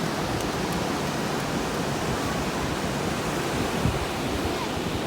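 Steady rushing noise of ocean surf, with a low rumble.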